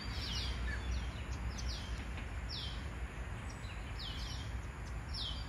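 Small birds chirping: short, high chirps that fall in pitch, repeated irregularly, some in quick clusters of two or three. Under them runs a steady low rumble of outdoor background noise.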